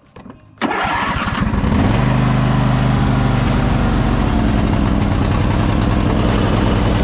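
Craftsman YT4000 riding mower engine cranked over about half a second in, catching within about a second and settling into a steady run.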